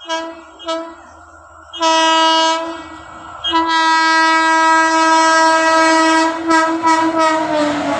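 Locomotive horn of an Indian express train sounding at close range: two short toots, a blast of about a second, then a long blast of about four seconds that stutters several times and dips slightly in pitch as it ends. The noise of the fast-moving train rolling past starts to build near the end.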